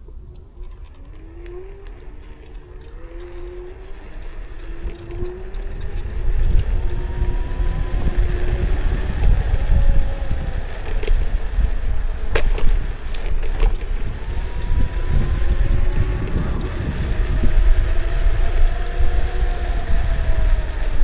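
Kukirin G2 electric scooter riding off: the motor's whine rises in pitch as it picks up speed, over a growing low wind-and-road rumble and scattered rattles and clicks. Near the end the whine drops in pitch as the scooter slows.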